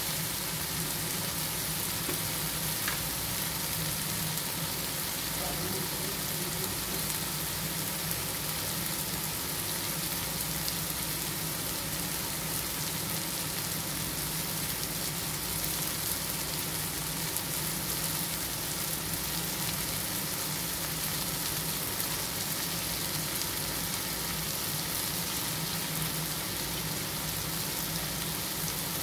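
Chicken pieces with onion and tomato sizzling in oil in an aluminium pot, a steady, even frying hiss.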